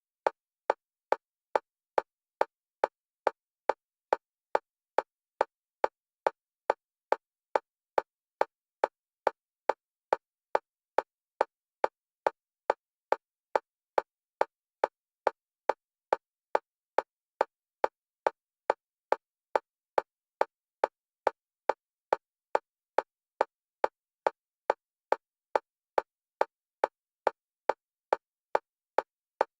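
Synthetic metronome click at a single pitch, repeating evenly at a little over two clicks a second and alternating between the left and right stereo channels for EMDR bilateral stimulation.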